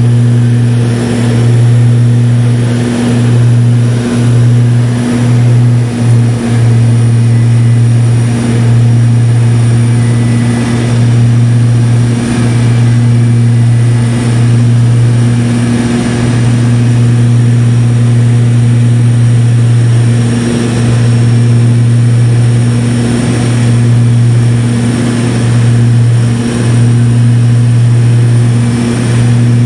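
Propeller aircraft engine drone in flight: a loud, steady low hum that holds the same pitch throughout, with a few brief dips in level.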